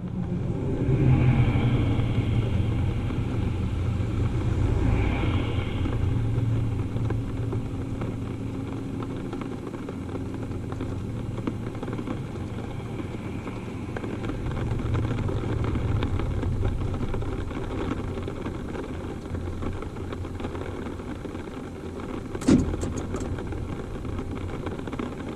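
Car cabin noise while driving: a steady low engine and road rumble with a faint hiss above it. One short knock about three seconds before the end.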